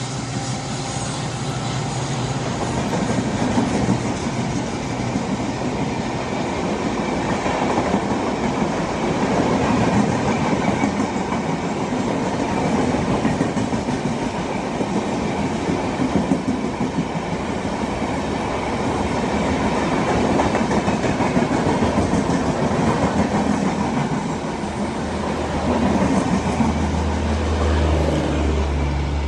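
Passenger coaches of a diesel-hauled express train running past at speed: a steady rolling rumble with wheels clattering over rail joints. The drone of the departing diesel locomotives fades out over the first few seconds.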